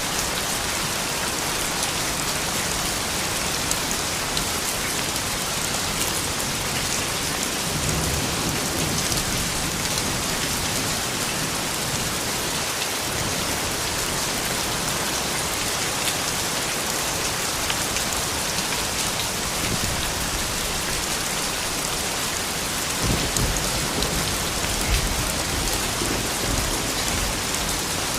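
Steady rain falling, a dense even patter, with low rumbles about a third of the way in and again near the end.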